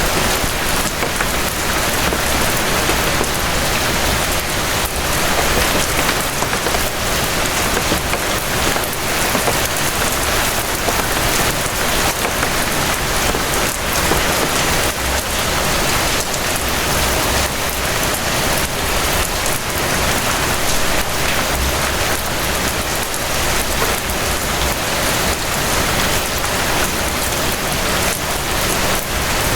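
Steady rain falling: a dense, even hiss of countless drops, with individual drop hits audible through it and a low rumble swelling underneath at times.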